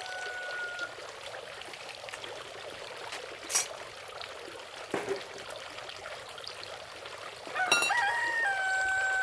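Rooster crowing twice: the long held tail of one crow fades out about a second in, and another crow starts near the end, rising and then holding a steady note. A steady hiss runs underneath, with a single sharp click in the middle.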